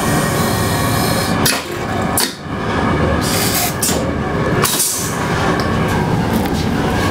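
Endeavour diesel railcar under way, heard inside its toilet compartment: a steady rumble and rattle of the running train, with bursts of hiss that come and go and two brief dips.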